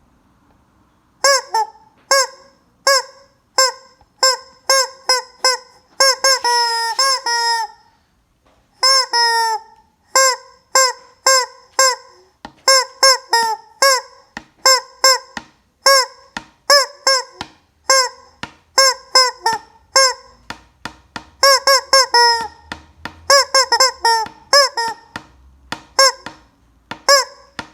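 Rubber chicken squeeze toy honking again and again as it is squeezed: short honks, mostly one at a time with a few quick runs, each dropping in pitch at its end.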